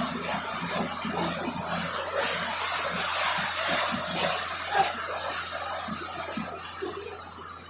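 Steady rushing, hissing noise of water and a boat under way on the river, with no distinct events.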